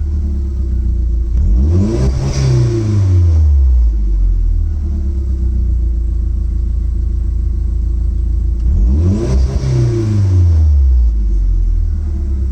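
Audi TT 225's turbocharged 1.8-litre four-cylinder engine idling and blipped twice, about two seconds in and again about nine seconds in. Each time the revs climb quickly and fall back to idle over a second or two.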